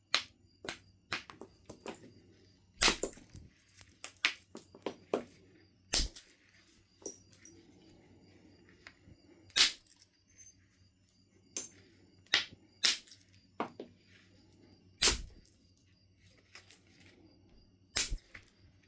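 Knife River Flint being knapped by percussion: sharp clicking strikes at irregular intervals, a few loud blows several seconds apart with lighter taps between them.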